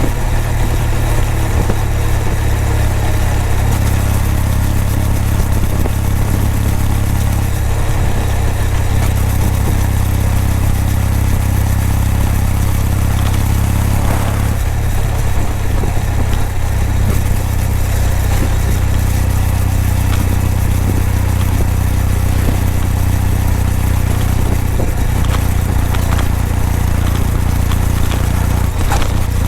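Kawasaki W800's air-cooled parallel-twin engine and exhaust running at a steady pace while riding, its low note holding even with no marked revving.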